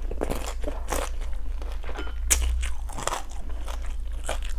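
Close-miked chewing of a mouthful of fried rice-flour cake (bột chiên), with irregular crisp crunches.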